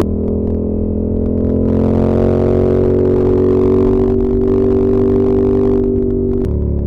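Ducati Monster 1200S's L-twin engine running under load while riding, its steady note slowly rising in pitch over the first few seconds. Near the end the engine note drops suddenly.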